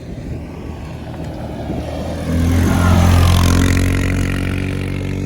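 Four-wheeler ATV engine approaching and passing close by, its engine note growing from about two seconds in, loudest around three seconds, then slowly fading.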